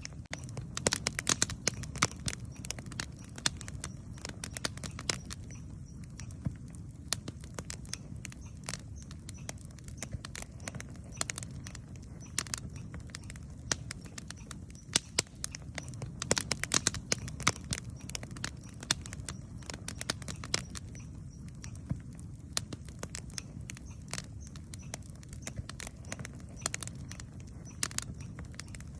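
Wood campfire burning, with a steady low rumble of flames under frequent sharp crackles and pops from the burning wood, coming in thicker clusters twice.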